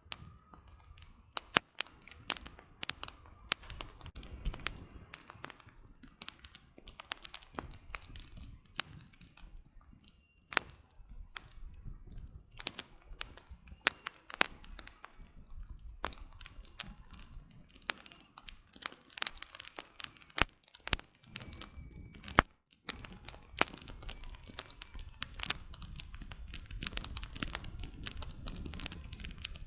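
Burning campfire logs crackling and popping, with sharp irregular snaps over a low, steady rumble of the flames.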